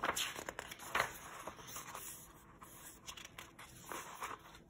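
Pages of a paperback picture book being turned by hand: paper rustling and flapping, strongest at the start and again about a second in, then softer handling rustles.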